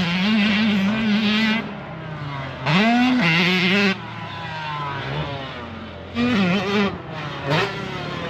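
Dirt bike engines revving on a motocross track in several loud bursts, the pitch climbing and dropping as the throttle is worked, with quieter engine sound in between.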